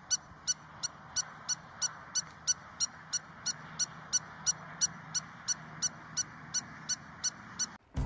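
A bird calling a long series of short, high notes, evenly spaced at about three a second, over a faint hiss; the calls stop abruptly near the end.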